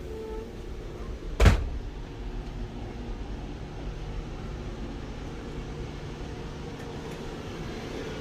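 Steady low hum of a KTX high-speed train's passenger cabin, with one sharp clunk about a second and a half in.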